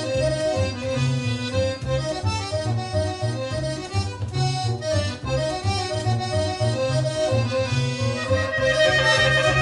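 Live instrumental music from an accordion-and-bass group: the accordion plays the melody over a bass line moving in steady notes. The accordion swells into louder held chords near the end.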